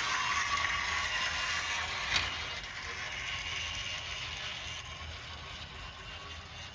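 Faller Play Train toy locomotive running along its track with a small motor and gear whir, growing gradually quieter as it moves away. A single sharp click about two seconds in, like the wheels passing a rail joint.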